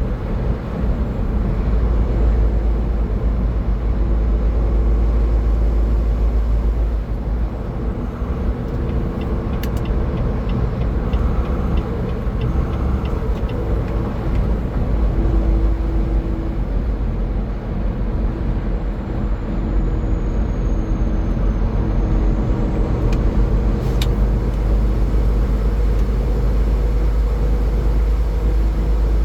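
Steady road noise of a car travelling at highway speed: a heavy low rumble with a steady hum over it. A short run of faint, evenly spaced ticks comes about ten seconds in, and one click comes later.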